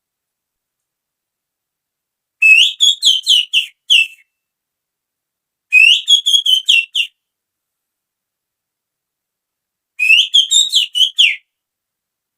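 Finger whistling imitating the call of a female oriental magpie-robin (kacer): three quick phrases of short, chirpy whistled notes, each phrase about a second and a half long and a few seconds apart.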